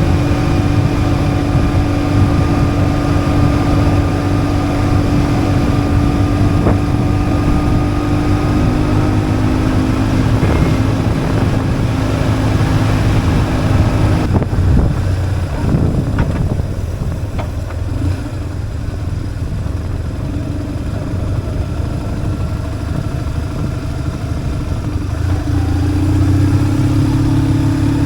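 BMW R1150GS boxer-twin engine running steadily under way, with the engine note dropping off about halfway through and picking back up near the end.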